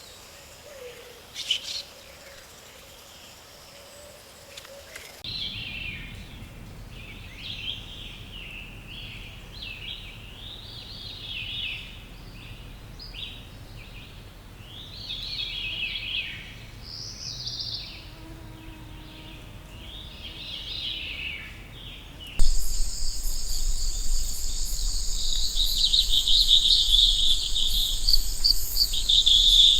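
Rainforest ambience: a songbird sings short, repeated chirping phrases, and about three quarters of the way through, a loud, steady, high insect chorus of crickets or cicadas suddenly takes over.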